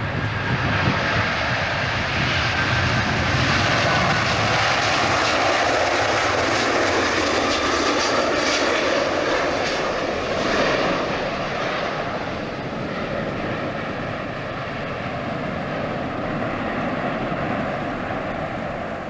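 Airliner engines passing close by: a loud, steady roar that builds, is strongest for several seconds, then slowly fades.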